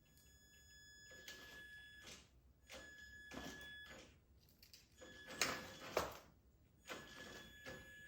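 Traxxas TRX4's electric motor whining in four short bursts of throttle, each about a second long, as it strains against the oversized box-fan wheels in two-wheel drive, high range, without getting the truck to move. Faint clicks and rustles come between the bursts.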